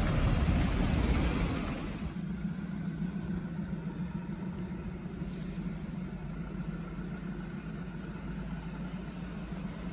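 Heavy truck engine running: loud for about two seconds, then dropping off to a steady low rumble.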